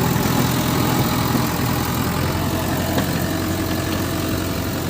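Steady engine hum like a vehicle idling, low and even, with no change in pace.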